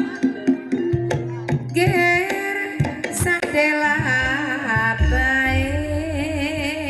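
Gamelan-style music for an ebeg (kuda lumping) dance: a singer's bending, wavering held notes over struck percussion and hand-drum strokes. A low sustained tone enters about five seconds in.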